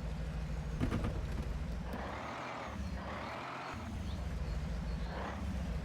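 Heavy truck engine running steadily at low revs, with a few clicks about a second in and several short rushing, hissing bursts over it.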